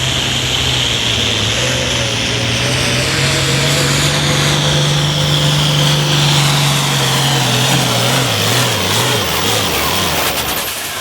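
Turbocharged diesel engine of an altered farm pulling tractor running flat out under load during a pull, with a high turbo whine over the engine note. Near the end the engine note breaks up and the pitch falls as the tractor comes off the throttle.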